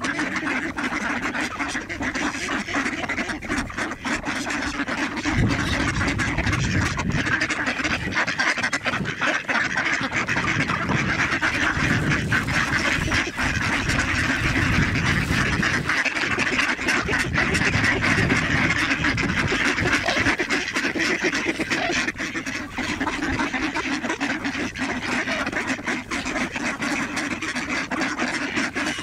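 A large mixed flock of waterfowl calling together: a dense, continuous din of ducks quacking, with geese honking among them.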